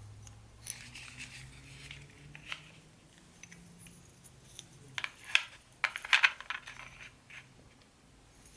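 Small hard parts of a vintage Tyco HO-scale model train set handled and set down, giving irregular clicks and clinks. The loudest cluster comes a little past the middle. A faint low hum runs under the first half.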